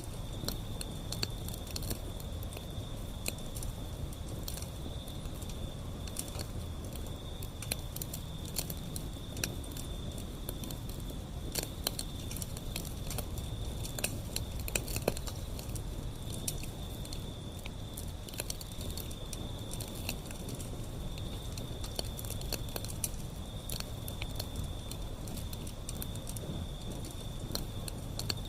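Wood fire burning, with steady low rumble and frequent irregular crackles and sharp pops. A steady high-pitched tone runs underneath.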